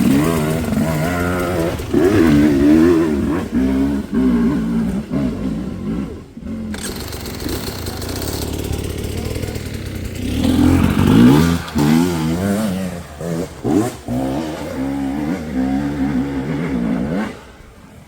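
Dirt bike engine revving hard in repeated rising and falling bursts as it climbs. It eases off about six seconds in, revs hard again from about ten seconds, and drops away near the end.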